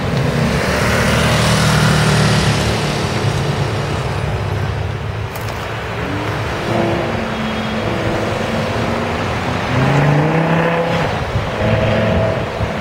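Lamborghini Gallardo LP570-4 Superleggera's 5.2-litre V10 running as the car pulls away, its note rising as it revs up about ten seconds in.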